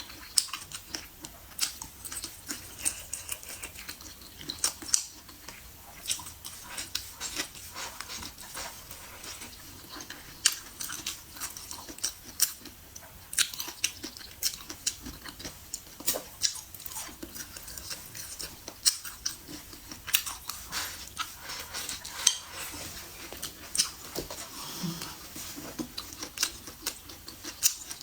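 A person chewing and eating food close to the microphone: irregular sharp mouth clicks and smacks, several a second.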